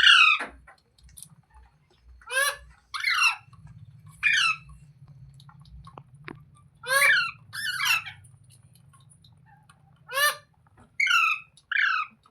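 Ringneck parrot (rose-ringed parakeet) giving short, harsh calls, about nine of them in loose pairs and triplets.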